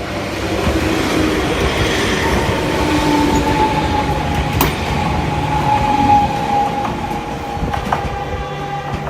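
Four-car Enoshima Electric Railway (Enoden) train passing, its wheels rumbling on the rails. A steady high wheel squeal starts about a second in and holds, falling a little in pitch, with one sharp click near the middle.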